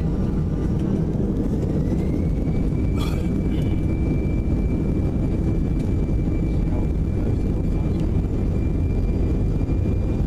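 Airbus A319-111's CFM56 jet engines running: a steady low rumble with a thin whine that rises about two seconds in and then holds steady. A brief knock about three seconds in.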